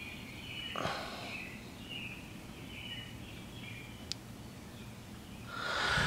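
Birds chirping faintly in the background over a low steady hum, with a brief rustle about a second in, a single sharp click around four seconds, and handling noise rising near the end.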